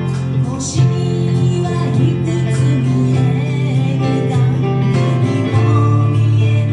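A band playing a song, with guitar over a steady bass and a wavering melody line above.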